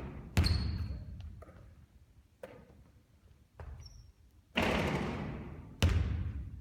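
A basketball bouncing hard on an indoor court during a three-point shooting session. There are two loud bounces, about half a second in and near the end, a long rushing hit about four and a half seconds in, and a few lighter knocks in between, all echoing in the hall.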